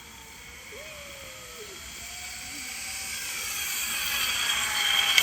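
Zip line trolley pulley running along the steel cable: a hissing whir that grows steadily louder as the rider comes down the line. A faint, brief wavering tone sounds about a second in.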